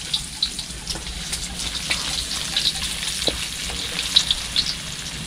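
Ginger frying in a very hot pan: a steady sizzle with scattered sharp crackles and pops, one louder pop near the end.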